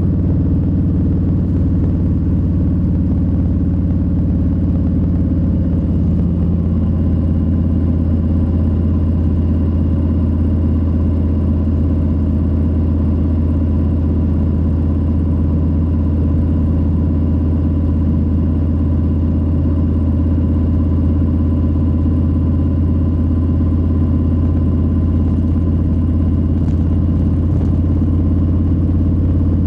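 2022 Harley-Davidson Low Rider S's Milwaukee-Eight 117 V-twin running at a steady engine speed, a deep low-pitched rumble that holds nearly constant.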